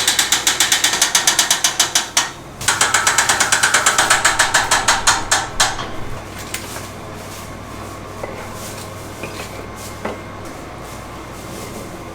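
A rapid mechanical ratcheting clatter, about ten clicks a second, in two runs of roughly three seconds with a short break between them; the second run slows and spaces out before it stops. Afterwards only quieter background noise with a few light knocks.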